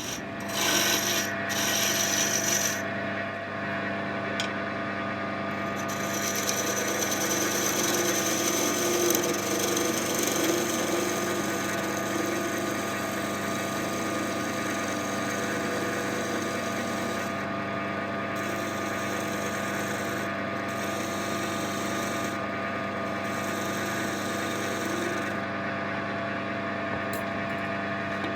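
Wood lathe motor running steadily, with a tool cutting the spinning oak workpiece in stretches of scraping hiss that stop and start several times.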